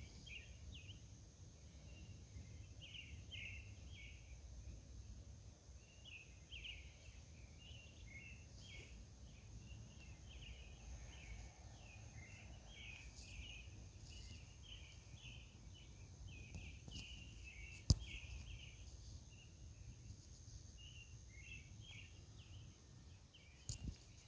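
Faint outdoor night ambience. Small creatures chirp in short, irregular bursts throughout, over a steady high whine and a low rumble. A single sharp click comes about eighteen seconds in, and two smaller ones near the end.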